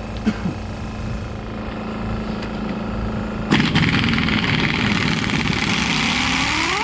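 A power tool starts about halfway through and runs for some three seconds with a loud hiss. Near the end its pitch rises, then falls away as it winds down.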